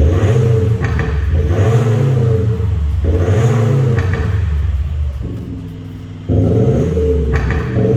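Kia Sportage NQ5 with an Xhaust electronic active exhaust sound generator, putting out a synthesized V8-style exhaust note as the engine is revved in repeated blips. About five seconds in it drops to a lower, quieter note, then a second later cuts back in suddenly at full level.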